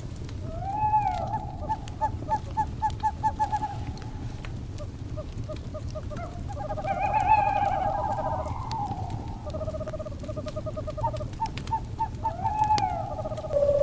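Owl calls over a crackling wood fire: a rising call that runs into a rapid pulsed trill, a denser cluster of calls in the middle, and another rising call near the end. Scattered sharp fire crackles and a steady low fire noise run underneath.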